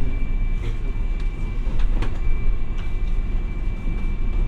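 Hiroden 700 series tram running on its line: a steady low rumble with a thin steady high tone, and a few sharp clicks or knocks from the wheels and track, the strongest about two seconds in.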